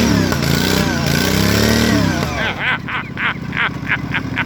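Riding lawnmower engine revving hard under load, its pitch rising and falling while one rear tire spins in the dirt trying to drag a chained log. About two seconds in the engine note drops away and a quick run of short, higher pulses, about four a second, follows.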